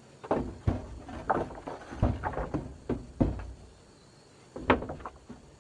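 A series of irregular knocks and thuds, a dozen or so in quick succession, then a pause and a final cluster of sharper knocks near the end.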